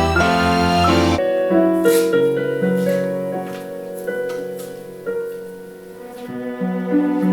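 Cello ensemble with piano accompaniment playing a slow piece: long held cello notes over piano chords. The sound changes abruptly about a second in.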